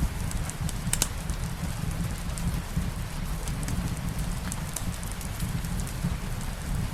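Soft rain mixed with a crackling wood fire in a fireplace: a steady low-pitched bed of noise with scattered short, sharp crackles, the loudest about a second in.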